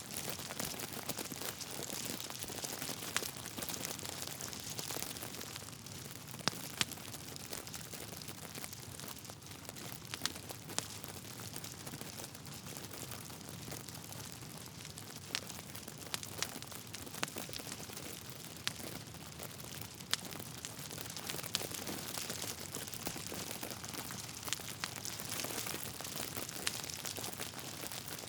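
Wood fire burning in a fireplace: logs crackling over a steady hiss, with sharp pops scattered irregularly throughout.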